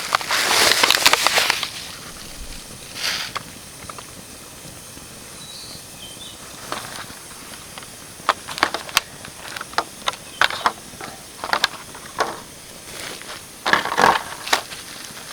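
Dry twigs and sticks being handled and snapped, with rustling. A burst of rustling opens, then sharp snaps come scattered through the second half.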